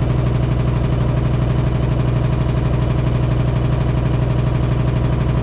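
Hitachi SF-150TCV top-loading washing machine in its high-speed spin, running loud and steady with a strong low hum and a fast, even pulsing rattle. It is an abnormal spin noise: the owner says the tub wobbles side to side and the cabinet vibrates, although the machine measures level.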